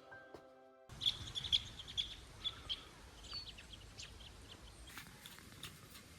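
Small birds chirping, a quick run of short, high chirps about a second in and fainter scattered ones after, over a steady outdoor hiss.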